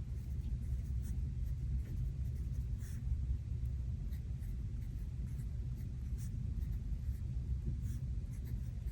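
Pen writing on planner paper in short, faint strokes, over a steady low rumble from the thunderstorm ambience.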